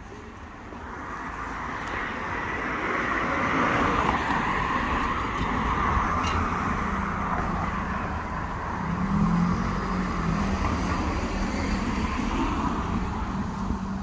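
Road traffic passing close by: tyre and engine noise swells over the first few seconds and stays up. From about six seconds in, a steady low engine hum joins it.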